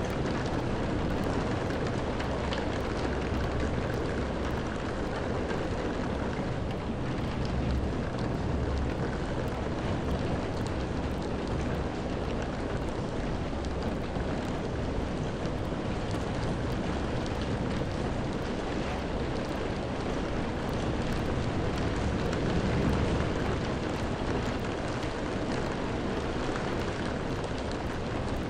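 Steady rain falling: a dense, even hiss with a low rumble underneath.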